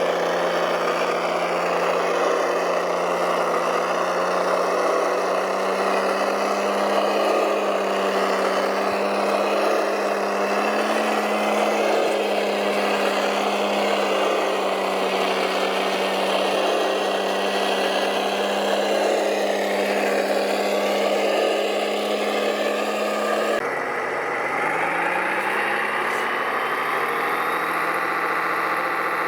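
Radio-controlled model machine running with a steady engine-like drone. About 24 seconds in it cuts to another run that rises in pitch and then holds steady.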